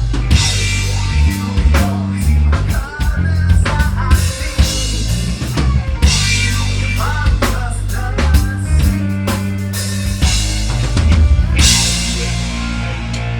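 Metal band playing live at full volume: a drum kit pounding kick and snare under sustained bass and guitar notes.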